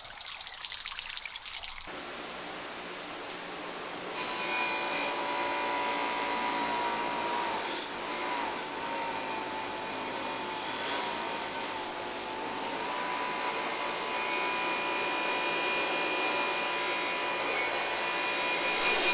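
Bench buffing machine running with an 8-inch Scotch-Brite wheel, buffing an aluminium motorcycle engine case: a steady motor whine with an abrasive rubbing noise, louder from about four seconds in.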